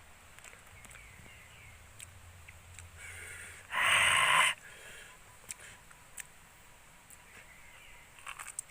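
A loud, harsh bird call lasting under a second, about four seconds in, with a quieter lead-in just before it.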